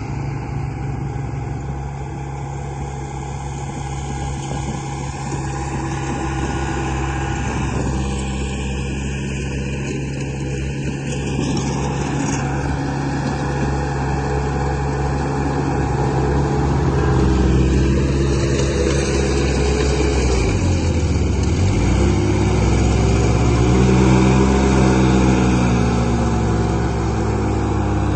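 Radio-controlled construction model running, a steady engine-like drone that grows gradually louder. In the second half its pitch rises and falls several times as the machine works.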